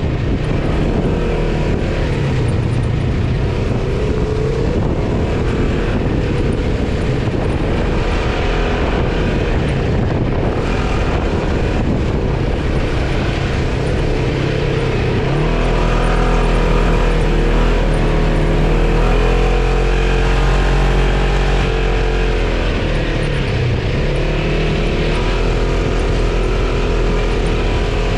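Quad bike engine running under load, its revs rising and falling as it is ridden, with a deeper, louder stretch in the middle.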